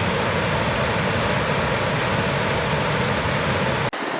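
Gurara Falls' rushing water: a loud, steady, even rush of noise. It is briefly broken by a sharp edit cut about four seconds in before a similar rush resumes.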